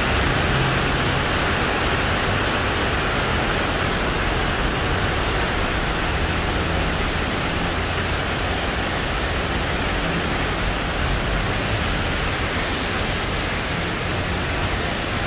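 Heavy rain falling steadily, an even rushing hiss with a low rumble beneath it.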